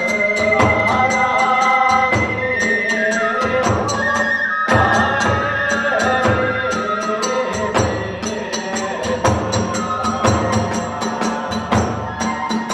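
Kagura hayashi music: a bamboo transverse flute plays a stepping melody over a steady, fast beat of taiko drums and clashing small hand cymbals.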